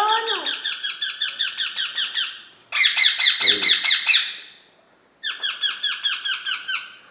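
Two-month-old Indian ringneck parakeet chicks calling in rapid strings of shrill, falling squawks, about six a second, in three bouts with short pauses between them.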